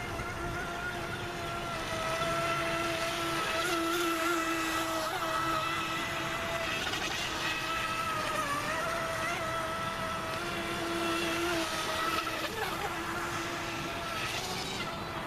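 Radio-controlled model racing boat with a brushless electric motor driving an outboard flex shaft, running on the water: a steady motor whine that wavers slightly in pitch, dipping briefly a couple of times.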